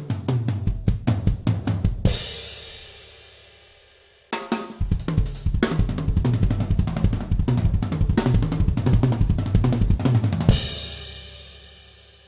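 Gretsch Renown Purewood Hickory drum kit played as a sound sample: fast groove of kick, snare, toms and hi-hat ending on a cymbal crash about two seconds in that rings down. A second phrase starts about four seconds in, and a final cymbal crash near the end is left to ring and fade out.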